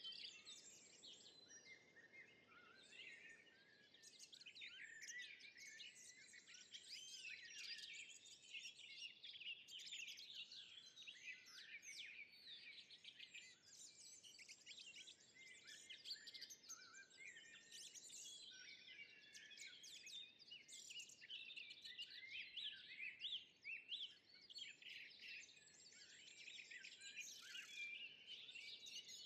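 Faint forest ambience: many small birds chirping and twittering, their short calls overlapping continuously, over a soft background hiss.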